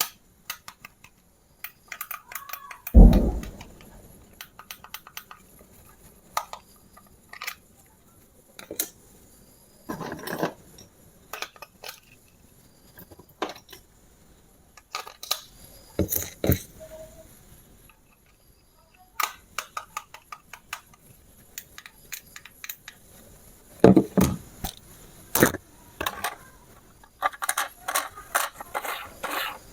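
Hard plastic toy parts and packaging being handled: scattered clicks, knocks and short rattles, with a heavier thump about three seconds in.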